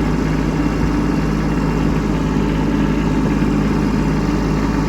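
Kubota B2601 compact tractor's three-cylinder diesel engine running steadily as the tractor drives.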